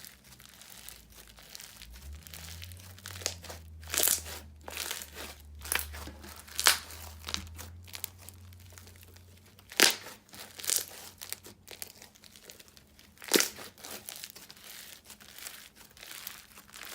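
Slime being squished and stretched by hand, giving scattered sharp crackles and pops.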